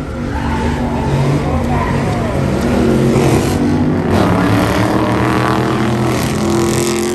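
Vehicle-mounted train horn blowing a long, loud, steady chord, with car engines revving underneath.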